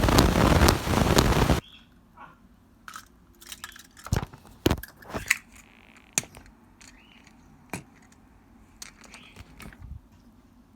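Handling of plastic toy pieces: a loud rustling burst for about a second and a half, then scattered clicks and taps.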